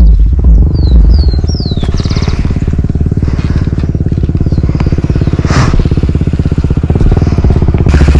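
Honda XR 250 Tornado's single-cylinder four-stroke engine running under way at a steady moderate speed, its rapid even firing beat growing louder near the end. A few short high falling chirps sound in the first two seconds.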